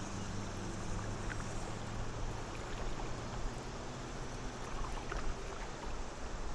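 Water washing along a kayak on a calm river, with a steady rush of wind and water noise. A low steady hum sits underneath and fades out about five seconds in, and a few faint drips or ticks come through.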